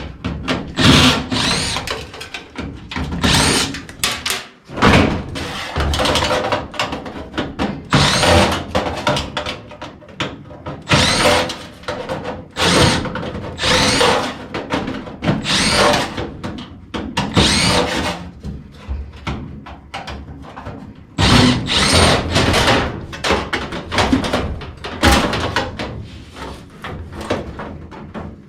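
Cordless power driver running in short repeated bursts, roughly one every second or two, with knocks of tools in between.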